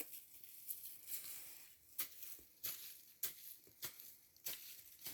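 Crisp crunching clicks at a steady walking pace, about one every 0.6 s, like footsteps on dry leaf litter.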